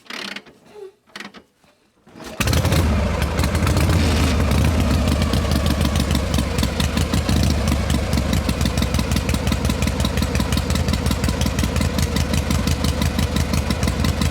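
A small engine starts about two seconds in and runs with a rapid, even beat.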